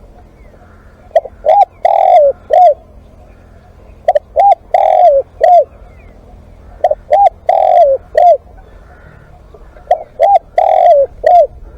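Spotted dove cooing close up: four calls about three seconds apart, each a quick pair of short coos, a longer drawn-out coo and a final short coo.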